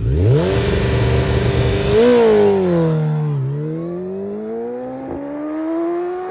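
600cc sportbike engine revved up and held high for a launch; the revs dip as the clutch is let out about two seconds in, then climb steadily as the bike pulls away.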